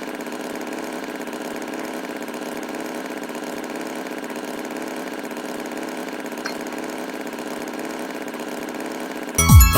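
Cartoon tractor engine idling steadily, with an even hum. Near the end, a loud sudden sound effect with a swooping fall in pitch cuts in.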